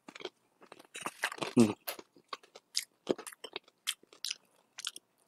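Close-up chewing and crunching of crispy fried ngohiong (spring roll), a run of irregular crackling bites.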